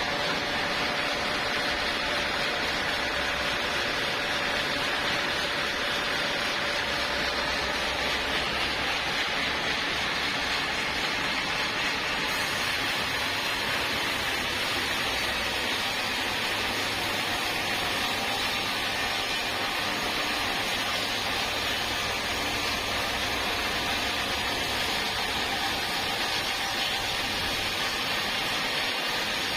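Sawmill machinery running steadily: an even hiss with a faint hum beneath it.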